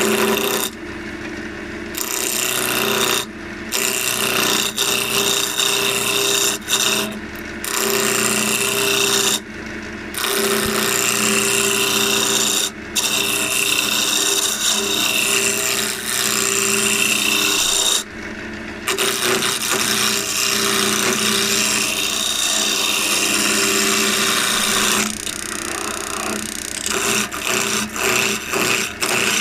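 A wood lathe turns an elm blank while a turning tool cuts into it, roughing it round. A steady motor hum runs under a rough, scraping cut that breaks off briefly several times as the tool leaves the wood.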